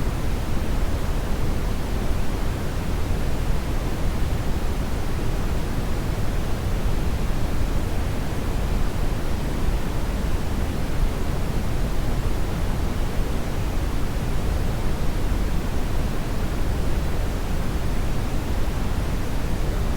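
Hair dryer running steadily: an even airflow hiss that doesn't change in pitch or level.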